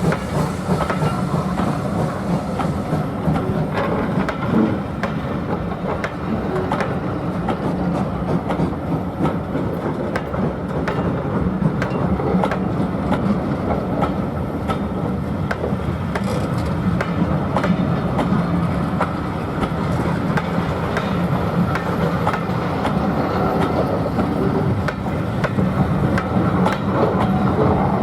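Train running along the line: a steady rumble with frequent clicks of the wheels over the rail joints.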